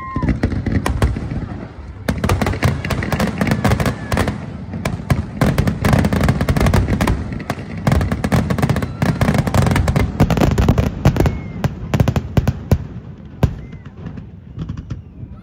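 Aerial fireworks in a rapid, dense barrage: sharp cracks and crackling shell bursts over a continuous booming rumble, thinning out near the end.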